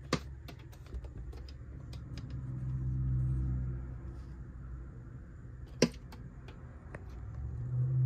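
A bird tapping and striking at the window glass from outside: scattered light taps, with two sharp, loud knocks, one at the very start and one just before six seconds in. A low rumble swells in the middle and again at the end.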